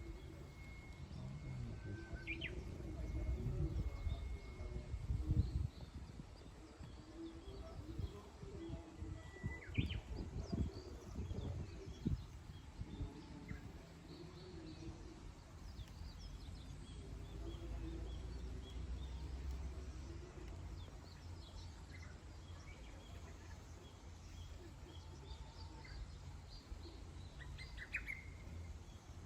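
Wild birds chirping with sparse, short calls over a low steady rumble that is louder in the first half.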